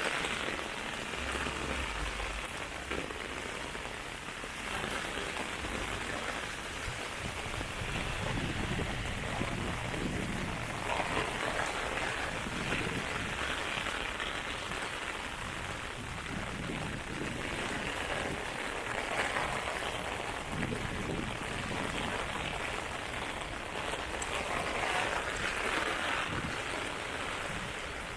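Heavy downpour drumming on an umbrella overhead and splashing on wet pavement, a dense steady hiss that swells and eases every few seconds.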